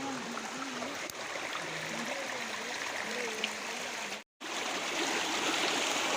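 Flowing stream water, a steady rushing hiss, with faint distant voices in the first few seconds. The sound cuts out for a moment about four seconds in, then the water comes back a little louder.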